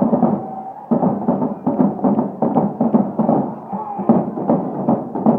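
Marching band music with a steady drumbeat, as in a bonfire-night procession.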